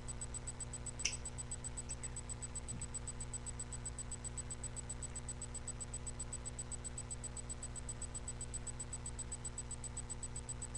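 Steady electrical hum and hiss of a webcam microphone, with one sharp click about a second in and a couple of fainter ticks soon after as small wooden craft sticks are handled and laid into folded paper.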